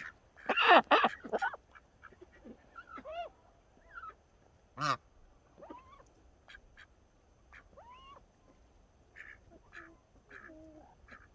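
Domestic ducks and a goose calling: a loud run of quacks and honks about a second in, one sharp call near five seconds, then scattered softer calls.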